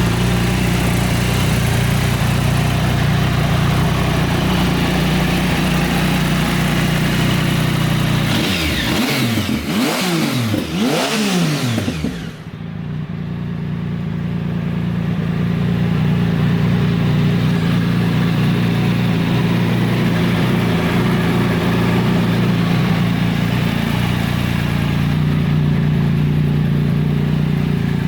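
Triumph Sprint ST 1050's three-cylinder engine idling steadily, revved several times in quick succession around the middle, then settling back to idle.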